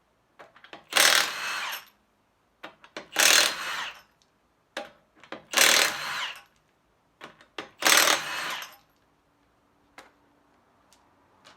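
Electric impact wrench with a 21 mm socket undoing wheel lug nuts: four bursts of hammering about two and a half seconds apart, each loud at first, then dropping off before it stops.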